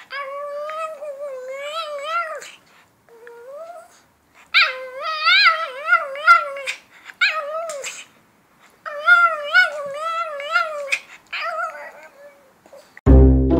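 Shih Tzu "talking": drawn-out, wavering whine-howl vocalizations in about six phrases with short pauses between them, the pitch sliding up and down. Music comes in just before the end.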